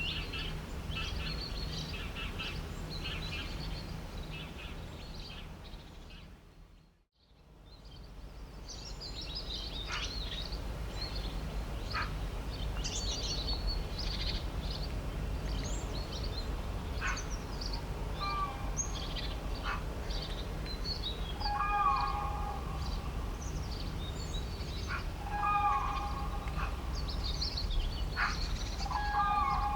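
Several birds chirping and singing over a steady low background rumble. About seven seconds in, the whole sound fades out to silence and fades back in. In the second half, a louder call with several tones repeats four times, about every three to four seconds.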